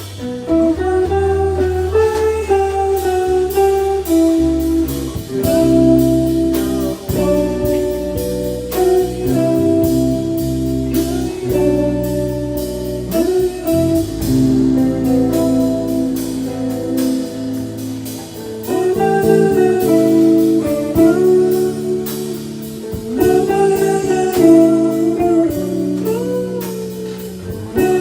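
Jazz-blues band playing: a lead guitar line of sustained and bent notes over a walking bass and drums with steady cymbal ticks.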